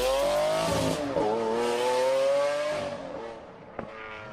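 Car engine revving. Its pitch climbs, dips about a second in, climbs again, then dies away about three seconds in. There is a short click near the end.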